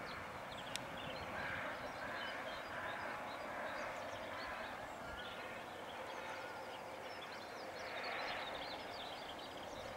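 Steady, even rumble of a distant diesel train running along the valley, with small birds chirping now and then over it.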